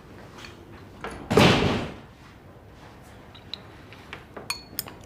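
A door shutting with one short, dull burst of noise about a second and a half in, followed by a few faint clicks.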